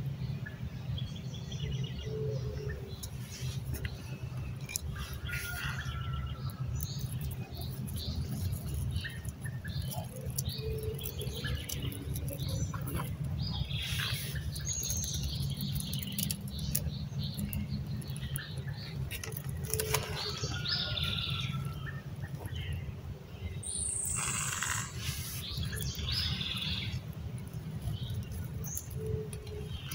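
Small birds chirping and calling on and off, one call sweeping down sharply a little past the middle, over a steady low rumble. Scattered short crackles and clicks run through it.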